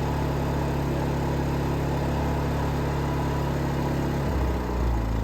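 Predator 2500 inverter generator's single-cylinder four-stroke engine running steadily under the load of a coffee maker. Near the end its engine note drops to a lower speed, the generator throttling down as its economy throttle setting takes over.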